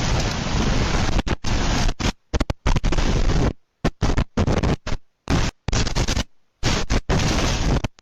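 Strong wind blasting a phone microphone: a loud, even rushing that, from about a second in, keeps cutting out to silence and back in short gaps.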